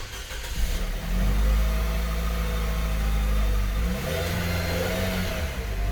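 Nissan Serena FC26's 2.0-litre four-cylinder engine starting: a brief crank, catching about a second in, then running at a raised cold-start idle that eases down slightly about four seconds in.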